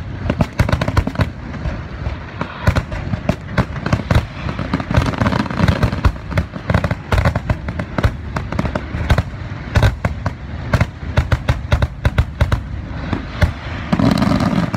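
Aerial fireworks display: shells bursting in rapid succession, a dense barrage of bangs and crackle that never lets up, growing louder near the end.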